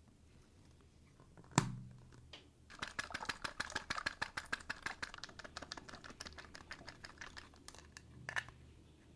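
Small hard toy pieces clicking and rattling rapidly for a few seconds, after one sharp knock, with another knock near the end.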